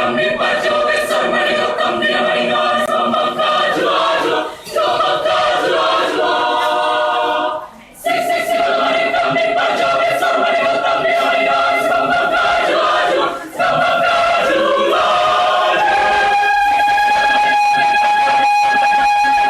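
A choir singing a cappella in close harmony, phrase by phrase with brief breaths between. Near the end the voices hold one long chord.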